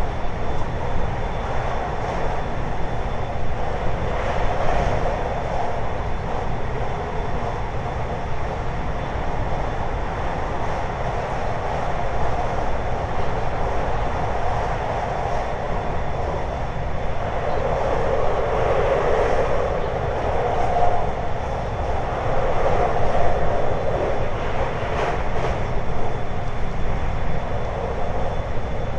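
Hapi-Line Fukui 521 series electric multiple unit running along the line: a steady rumble of wheels on rail, swelling for a few seconds about two-thirds of the way through.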